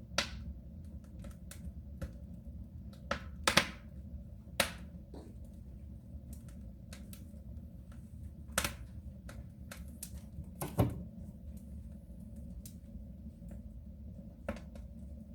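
Wood fire crackling in a soapstone stove: irregular pops and snaps, a few of them sharper and louder, over a low steady rumble.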